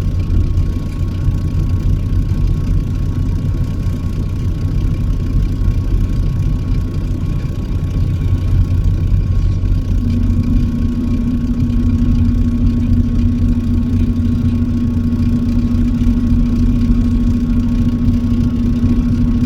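Truck's engine and road noise heard from inside the cab while driving, a steady low drone. About halfway through, a steady hum comes in over it and holds.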